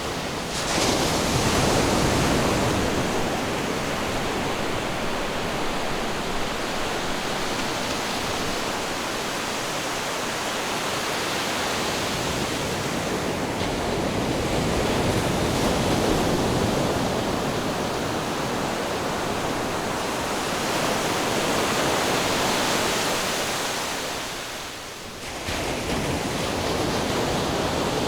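Ocean waves surging onto the shore in a continuous rush of surf that swells and ebbs every several seconds, with a brief lull near the end before the next wave breaks in suddenly.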